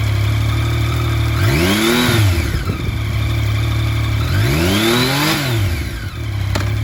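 2016 Yamaha FJ-09's three-cylinder engine idling steadily and blipped twice, the revs rising and falling back to idle about a second and a half in and again around four seconds in.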